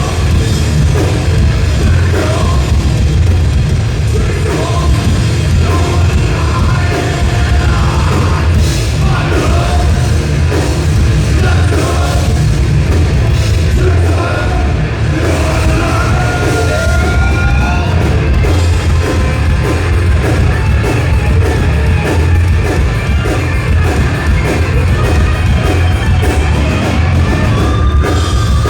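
Thrash metal band playing live: distorted electric guitars, bass and drum kit, loud and continuous.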